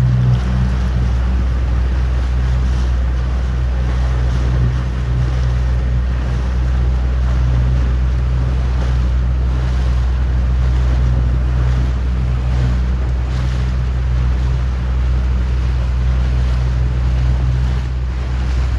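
Motorboat engine running at a steady speed, a constant low hum, under the rush of water along the hull and wind buffeting the microphone.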